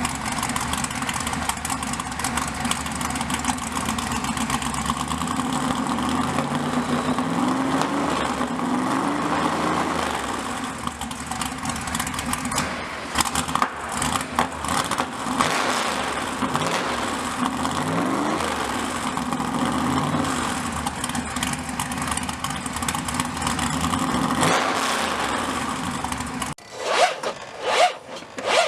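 Engine of a 1967 Ford Mustang (Shelby GT500 clone) running, with the pitch rising twice as it is revved up. About two seconds before the end it cuts off abruptly and is replaced by a rhythmic scraping.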